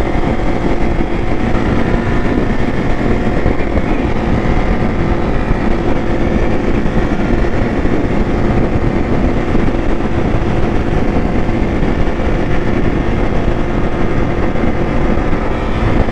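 Motorcycle engine running steadily while riding, loud and even throughout.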